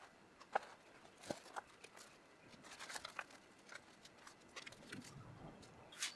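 Faint, scattered small clicks and light knocks, a few seconds apart, against a quiet room background.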